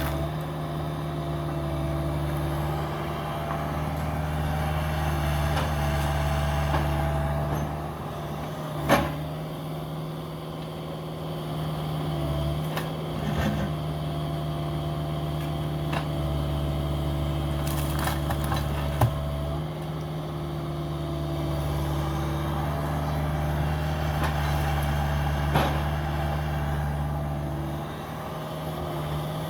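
Cat 305 mini excavator's diesel engine running steadily, its note shifting slightly as the hydraulics work. Two sharp knocks come about nine and nineteen seconds in, with a lighter one later.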